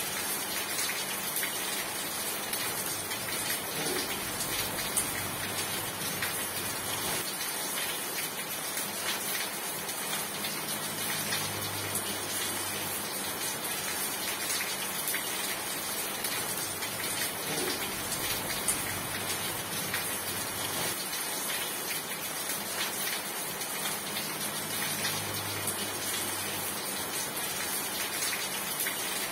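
Steady rain falling, an even hiss with many small drop ticks running through it.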